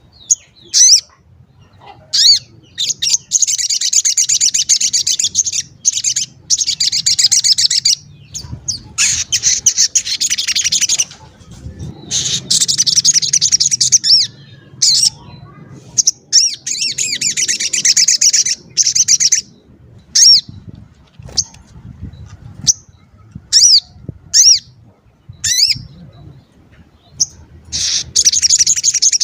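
A sogon bird singing rapid, high twittering phrases a second or two long, separated by single sharp 'cuit' chirps. It is a gacor lure call of the kind used to provoke other sogon birds into answering.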